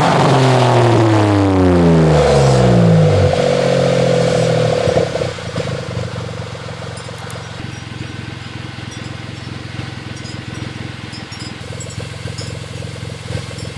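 Nissan March exhaust through an aftermarket AZC muffler: the engine's revs fall away over about three seconds. Around five seconds in it settles to a steady idle.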